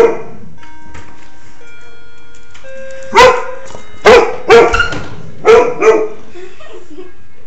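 Golden retriever barking loudly: one bark right at the start, then five barks in quick succession from about three to six seconds in.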